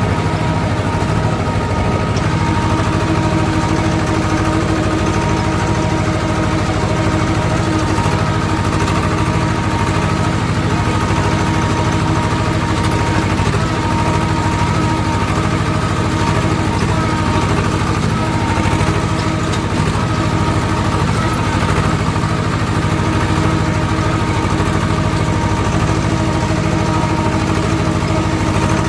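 Swaraj farm tractor's diesel engine running steadily at an even pace.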